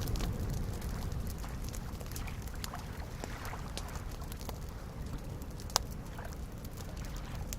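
Campfire crackling with scattered small pops, and one sharper pop a little before six seconds in, over a steady low wash of soft lake waves lapping.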